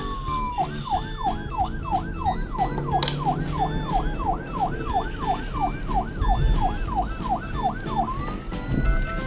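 Police car siren: a slow falling wail, then a fast yelp sweeping up and down about three times a second, switching back to a slow rising wail near the end.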